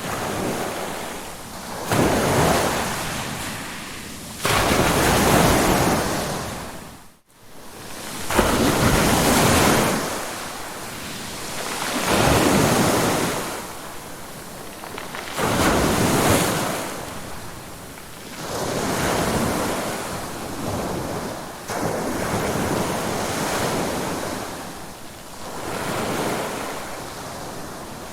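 Ocean waves breaking and washing in, one swell after another about every three to four seconds. There is a momentary gap in the sound about seven seconds in.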